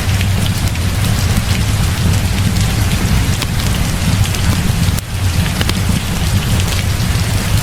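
Heavy rain falling steadily over a continuous deep rumble, with many small sharp ticks scattered through it.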